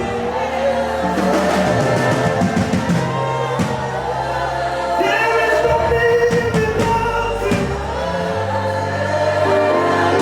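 Live gospel worship music: voices singing long, held lines over a steady instrumental backing with sustained low bass notes.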